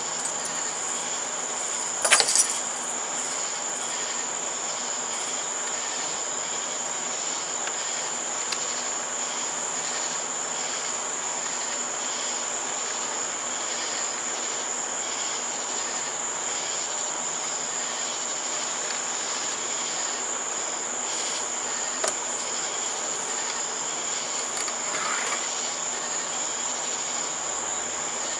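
Steady, high-pitched chorus of crickets at night. A short, loud knock breaks in about two seconds in, and a couple of faint clicks come later.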